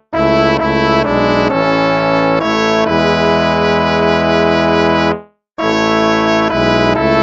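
Instrumental hymn played in a brass sound, trombone and trumpet-like, in held chords that change every second or so. The music stops for a moment about five seconds in, then the next phrase begins.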